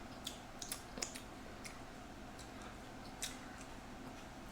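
Faint eating sounds while eating barbecue: scattered soft clicks of chewing and mouth smacks, several in the first second and one more past the middle, over a quiet hiss.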